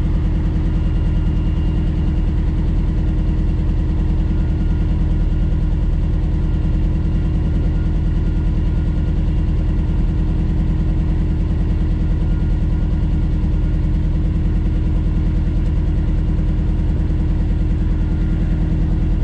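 Old farm truck's engine idling steadily, a constant low hum with no change in speed.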